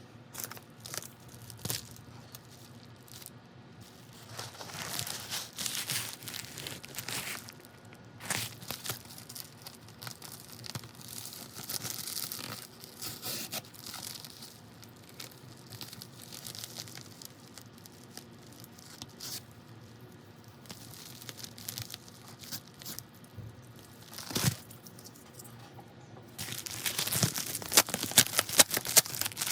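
Packaging being torn open and handled: paper and plastic ripping and crinkling in irregular bursts, with a few sharp clicks, then a denser, louder run of crackling near the end.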